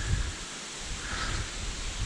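Steady hiss with a few low thumps, the strongest just after the start: wind buffeting the microphone.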